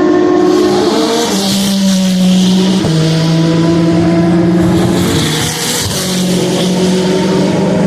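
Endurance racing cars at close range braking and changing gear for the slow Mulsanne corner. Several engine notes overlap, each stepping abruptly in pitch at the gear changes, over a hiss of tyres and brakes.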